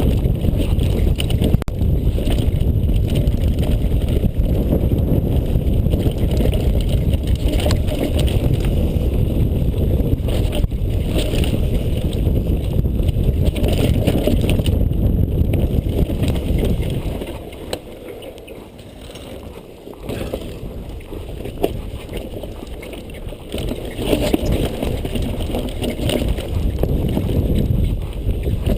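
Downhill mountain bike running down a rough dirt track: a steady rumble of wind on the microphone and tyres on the ground, with frequent rattles and knocks from the bike. It eases off for a few seconds about two-thirds of the way through, then picks up again.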